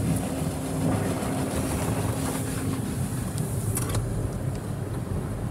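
Autec Evolution in-bay car wash machinery running, heard from inside the car: a steady low mechanical noise with a faint steady tone for about the first three seconds and a short click about four seconds in.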